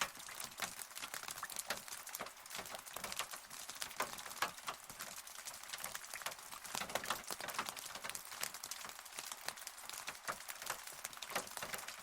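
Rain falling close by, a steady hiss of dense, irregular taps and ticks as drops strike a surface.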